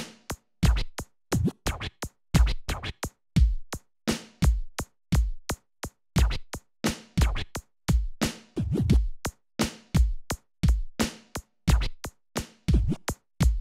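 Electronic drum samples from a Roland SPD-SX Pro sampling pad's factory kit played as a steady beat. Deep kick thumps come about once a second, with sharp, crisp hits in between, each hit dry and short.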